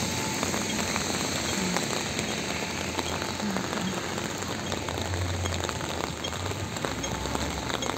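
Steady rain falling on wet pavement, with many small drop ticks and a low rumble about five seconds in.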